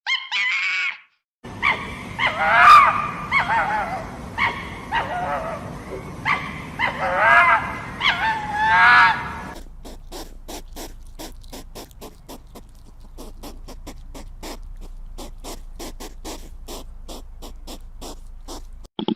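Animal calls: a short call at the start, then several seconds of loud calls that rise and fall in pitch over a hiss, then a long, even run of sharp clicks, about four a second, for the second half.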